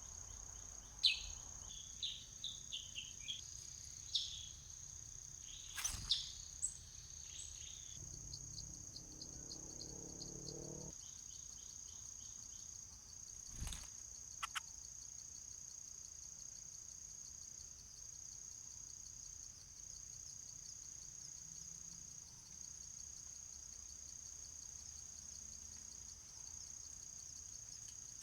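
Steady high-pitched insect drone, cricket-like. A series of short, sharp bird chirps comes in the first six or seven seconds, with a couple of sharp knocks.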